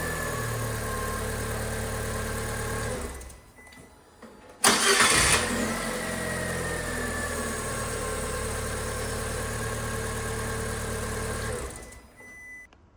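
Fiat 500 engine idling, switched off about three seconds in, then restarted with a short burst of starter cranking that catches at once. It idles steadily again and is switched off near the end. The starter has just had its sticking Bendix drive serviced, the usual cause of this car's startup squeak.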